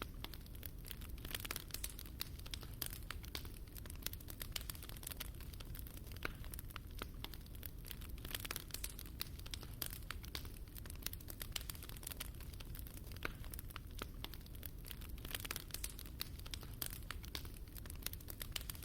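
Fire in a fireplace crackling: a dense, irregular run of small sharp pops and crackles over a low, steady rumble.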